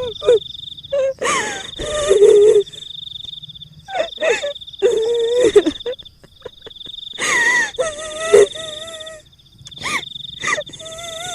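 Horror sound effect of a female ghost voice in the style of a kuntilanak, wailing and cackling in short loud outbursts with gaps between them, over a steady high insect-like trill.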